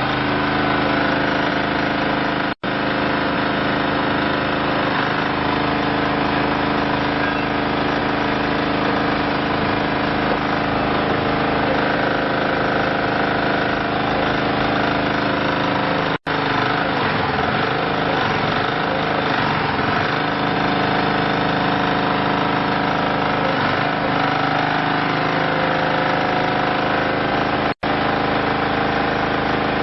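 Diesel engine of a hydraulic compressed earth block machine running steadily, with three split-second dropouts to silence.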